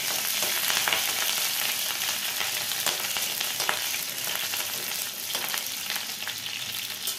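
Chopped green chillies sizzling steadily in hot oil in a metal kadhai. A metal spatula scrapes and taps the pan a few times as they are stirred.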